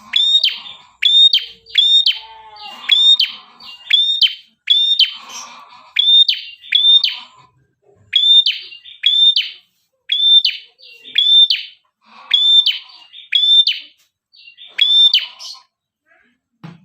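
Prenjak kepala merah, a red-headed tailorbird, calling in a loud, fast run of sharp, clipped notes, about two a second, with brief pauses between runs. This is the busy calling used as a lure to draw other prenjak in.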